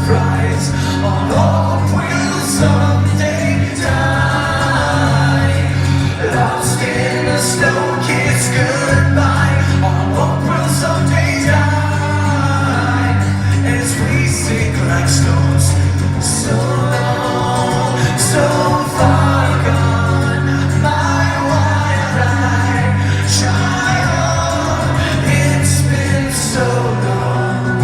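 Live acoustic rock band performing: singing over acoustic accompaniment, with steady low notes that change every couple of seconds and a regular strummed or struck beat.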